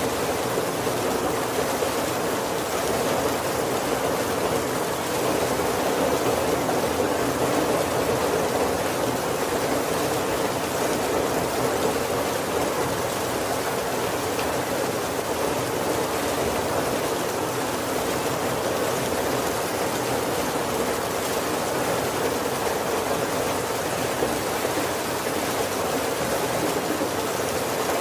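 Heavy rain falling steadily on a wooden carriage roof, a dense, even rush of water noise with no individual drops standing out.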